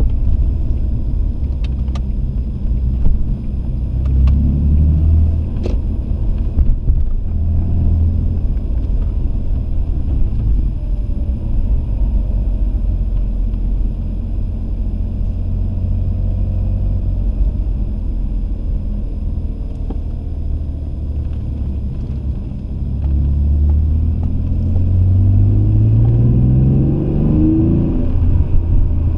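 Alfa Romeo 166's 3.2 V6 engine and road rumble heard from inside the cabin while driving slowly. The engine note rises briefly a few seconds in, and again in a longer climb near the end as the car accelerates.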